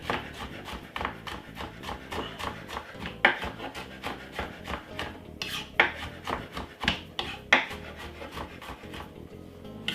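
Garlic being rubbed on a grater: quick, rhythmic rasping scrapes, about three or four a second, with a few louder strokes in the middle.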